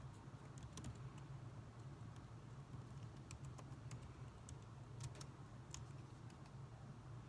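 Faint computer keyboard typing: scattered, irregular keystroke clicks over a steady low background noise.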